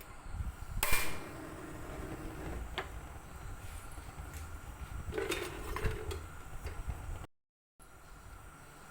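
A few knocks and clatters of objects being handled, the loudest about a second in, with a short cluster of clicks about five to six seconds in.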